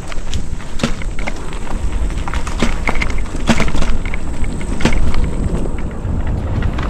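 Mountain bike riding over a rough dirt trail: wind buffeting the microphone, with the bike rattling and irregular clicks and knocks as it goes over bumps.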